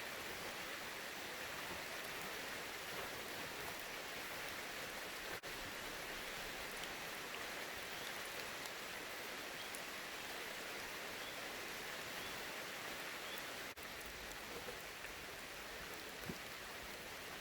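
Steady rain falling: an even hiss of rain with scattered small drop hits, briefly cutting out twice.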